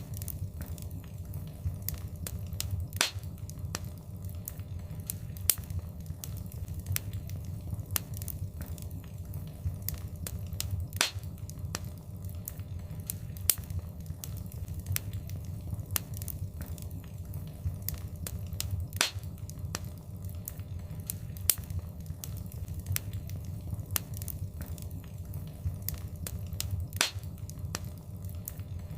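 Wood fire crackling: frequent sharp snaps and pops over a low, steady rumble of the flames, with a louder pop every several seconds.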